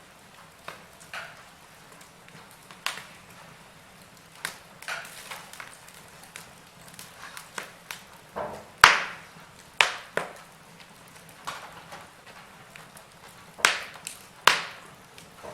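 Wood fire crackling in a fireplace: irregular sharp pops and snaps over a faint hiss, with the loudest pop a little past halfway and another cluster of pops near the end.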